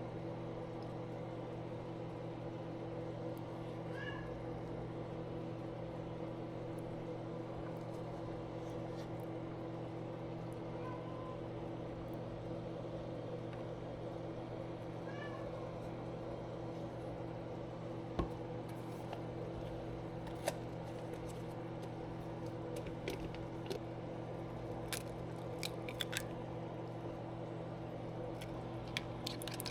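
A cat meows a few short times, about four seconds in and again around fifteen seconds, over a steady mechanical hum. Light clicks and taps come in the last third.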